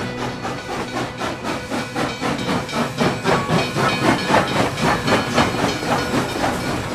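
Steam locomotive chuffing in an even rhythm, about two to three puffs a second, with steam hissing; the puffs grow louder after a few seconds.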